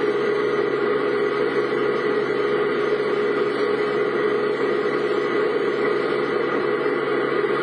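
A vehicle running steadily, its engine and road noise holding one even pitch.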